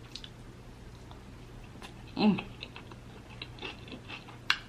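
Close-miked chewing and wet mouth clicks while eating, with a brief hummed voice sound about two seconds in and a sharp click near the end.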